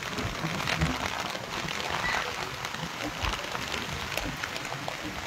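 Heavy rain falling steadily with wind: a dense hiss with many scattered ticks of drops striking close by.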